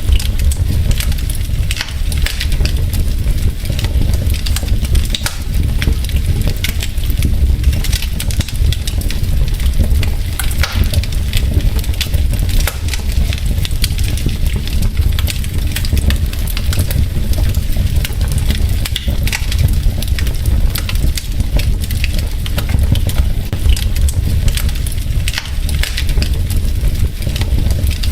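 Wood fire in a fireplace crackling: many irregular sharp pops and snaps from the burning logs over a steady low rumble.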